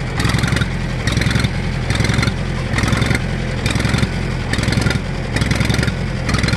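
1964 John Deere 1010 tractor's four-cylinder gasoline engine running steadily, with a regular pulse about one and a half times a second. It is running without a fan belt.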